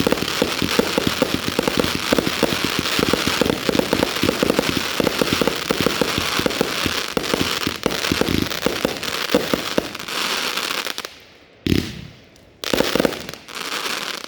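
Consumer firework cake firing: a dense barrage of rapid crackling reports for about eleven seconds, then tapering off to a few separate bangs near the end.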